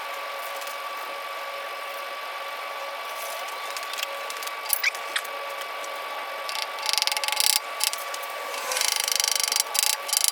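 Several short bursts of rapid, ratchet-like clicking from hand work at the engine, over a steady faint hum.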